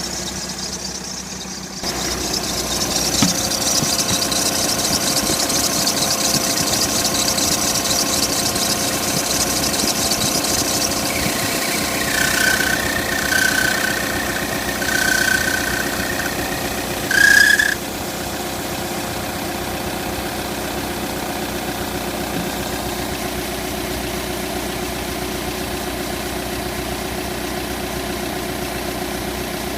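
Audi A4 engine running steadily, with an odd high squeal that comes four times in short bursts a little before the middle, the last one the loudest.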